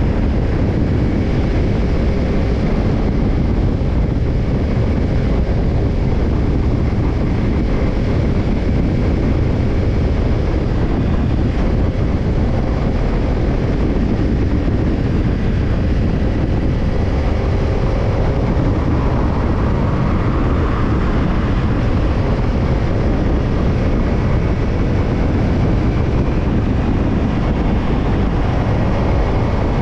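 Kawasaki Ninja 250's parallel-twin engine running through a BEET Nassert Evolution Type II titanium slip-on muffler, at a steady pace on the move, with wind rushing over the microphone.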